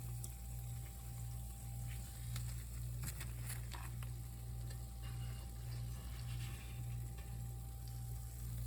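A steady low hum with a faint thin high tone over it, and scattered faint crackles and clicks, two of them louder about three seconds in.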